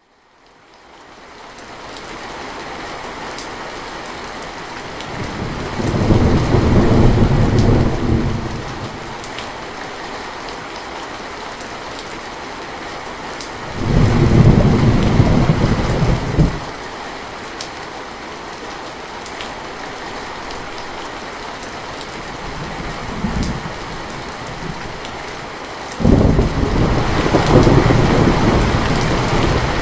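Steady rain with thunder. The rain fades in over the first couple of seconds. Thunder rumbles about five seconds in and again around fourteen seconds. A sudden, louder peal breaks about four seconds before the end and rolls on.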